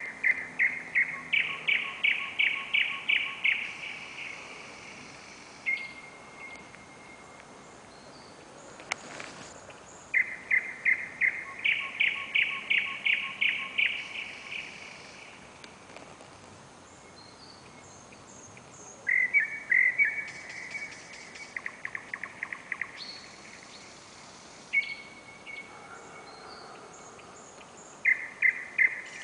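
Nightingale singing: phrases of loud, rapidly repeated notes, about four a second, each phrase a few seconds long, with pauses of several seconds between them.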